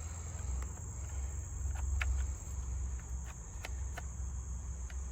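Steady high-pitched trilling of crickets, with a handful of light clicks and taps from hands working the chainsaw's air cleaner cover, over a low rumble.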